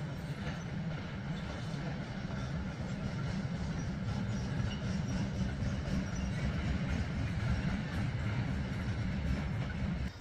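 Train rolling over the tracks of a rail yard: a steady low rumble that cuts off suddenly near the end.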